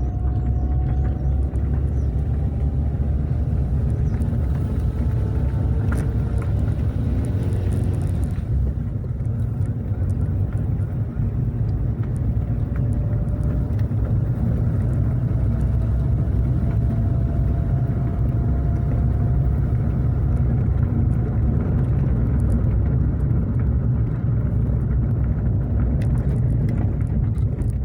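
Car driving steadily with a constant low rumble of engine and tyre noise. A faint whine rises slowly in pitch more than once, as the car gathers speed.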